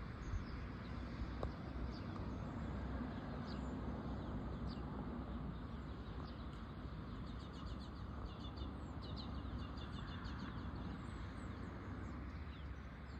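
Small birds chirping, with a quick trill of repeated notes in the middle, over a steady low background rumble.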